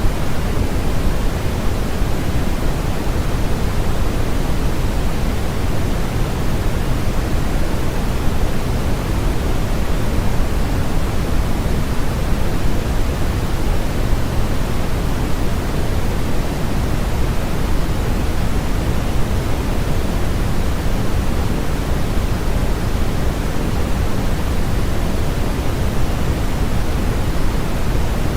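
Steady generated sleep noise, an unbroken static-like rush that never changes. It is heavier in the low end than in the highs, so it sounds deeper than pure white noise.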